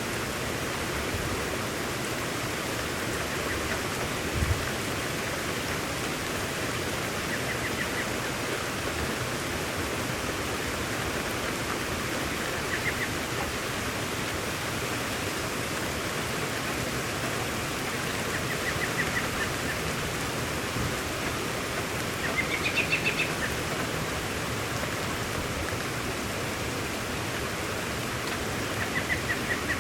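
Steady rain falling with a constant hiss. A bird calls several times in short, quick chirping runs, and there is a single low thump about four seconds in.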